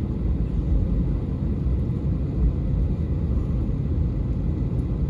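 Steady low rumble inside the passenger cabin of an Airbus A320neo with its CFM LEAP-1A engines running on the ground before take-off.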